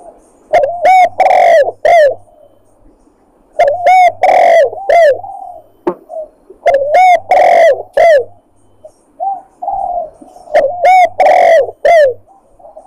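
Spotted dove (tekukur) cooing loud and close in four repeated phrases about three seconds apart, each a short run of rounded coo notes. It is the lure call used to draw in wild doves for hunting.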